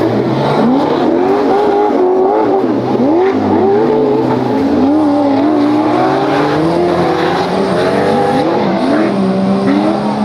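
Off-road 4x4 engines revving hard, pitch rising and falling repeatedly, with more than one engine overlapping as vehicles work through the stage.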